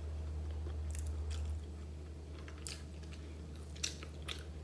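A person chewing a mouthful of food, with scattered short wet mouth clicks, over a steady low hum that drops a little after the first second and a half.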